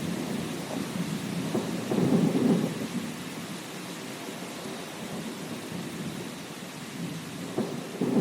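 Thunder rumbling over steady rain. A louder roll of thunder swells about two seconds in and dies away, and a sharper clap comes right at the end.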